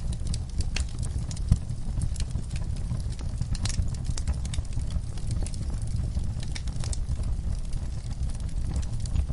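Burning logs in a fireplace: a steady low rumble of flame with frequent irregular crackles and pops, one sharper pop about a second and a half in.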